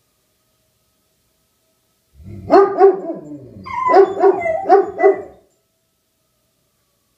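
Dog barking, about six loud barks in two quick groups that begin about two seconds in and stop about five and a half seconds in.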